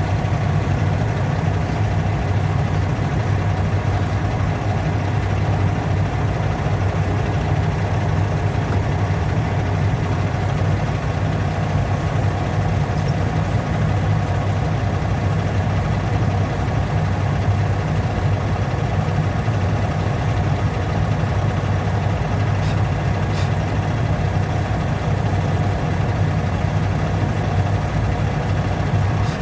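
A steady low mechanical hum that runs without change.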